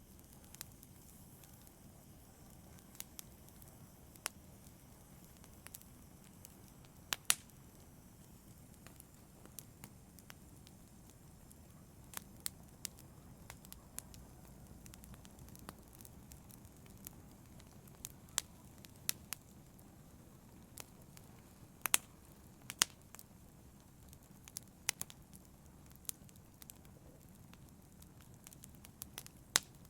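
Wood fire burning in a fireplace: a low steady rumble of flame with irregular sharp crackles and pops, a few of them louder than the rest.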